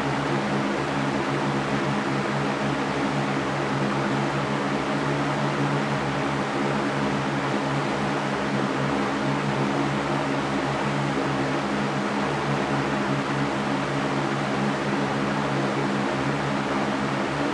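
Electric fan running steadily, a constant whooshing noise with a low motor hum beneath it.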